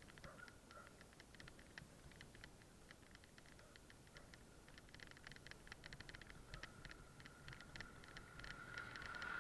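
Bicycle freewheel ticking faintly while coasting, the clicks growing denser from about halfway, with a thin high squeal swelling near the end.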